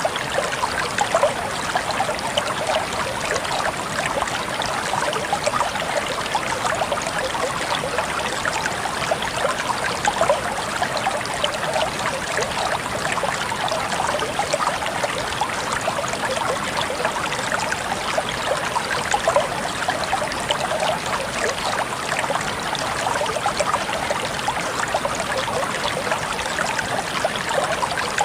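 Shallow stream of water flowing and trickling steadily, with a busy splashing and babbling texture.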